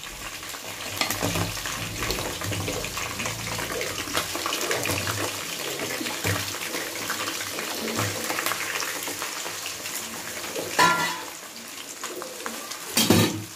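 Crab pieces sizzling and crackling in hot oil with fried onions, a wet-sounding sizzle from the water the crab gives off. The sizzle eases off near the end.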